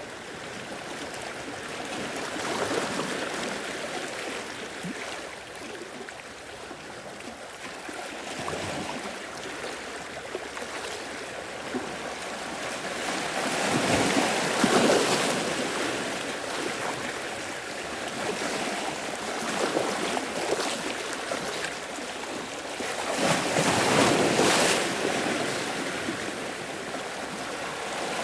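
Sea waves washing in and breaking, the noise of the surf swelling and ebbing, with two louder surges near the middle and towards the end.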